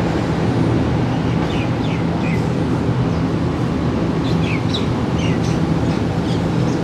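Steady low hum of the Green Line Express train standing at a station halt with its machinery running. Small birds chirp in short, quick calls from about a second and a half in until about six seconds.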